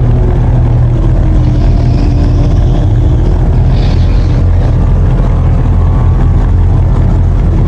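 Supercharged LS3 V8 of a Pontiac G8 GXP running at a steady idle, its exhaust making a deep, even drone close up at the rear of the car.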